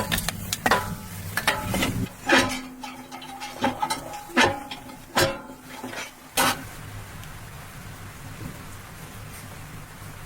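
About a dozen clinks and knocks with a short ringing, metallic tone over the first six seconds or so, then a steady hiss.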